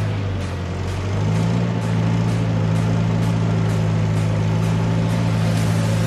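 A 4x4's engine running at a steady low pitch as it drives slowly along a rough track, heard close up from the bonnet. It gets louder about a second in and then holds steady.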